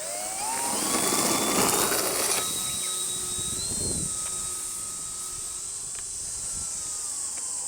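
Electric brushless motor and propeller of a 48-inch Skywing Sbach 342 3D foam RC airplane whining: the pitch rises as the throttle comes up over the first second or so, then holds fairly steady with small changes in throttle.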